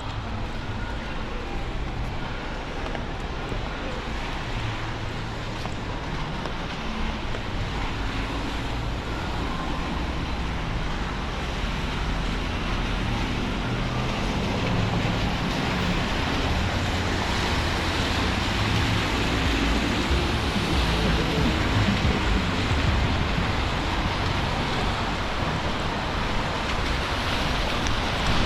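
City traffic on rain-wet streets: a steady hiss of tyres on wet pavement over low engine rumble, swelling as vehicles pass about two-thirds of the way through.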